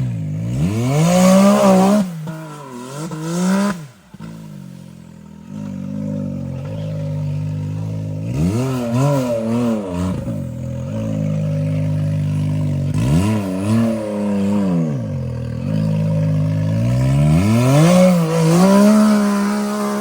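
Side-by-side UTV engine revving hard on a hill climb. Its pitch rises and falls in about five repeated bursts, and it drops off briefly about four seconds in.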